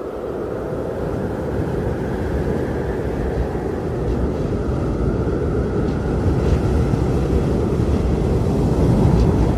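Strong blizzard wind blowing steadily with a deep rumble, swelling gradually louder toward the end.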